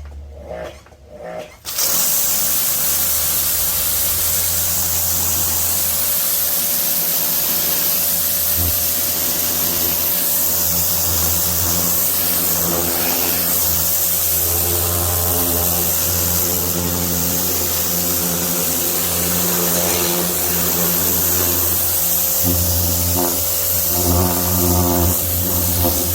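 Pressure washer starting up about two seconds in and running steadily: a motor and pump hum under the loud hiss of the water jet spraying.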